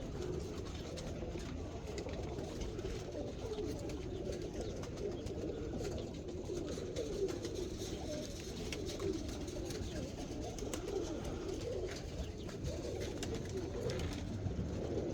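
A flock of domestic roller pigeons cooing together, many overlapping low, warbling coos with no break.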